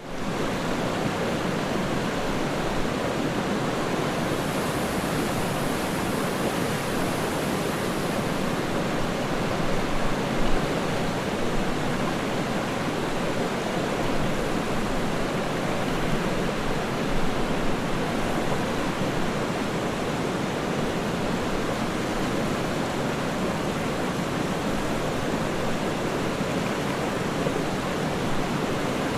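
Waterfall and river water rushing: a steady, dense wash of falling and flowing water that holds at an even level throughout.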